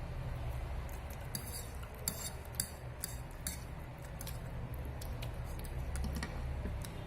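Chopsticks and a fork clinking and scraping against a dish during a meal of noodles. A few short clicks are bunched together in the first half, over a steady low hum.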